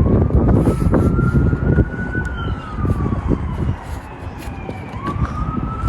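Emergency-vehicle siren wailing, its pitch rising, falling slowly and rising again near the end, over a low rumble with scattered knocks.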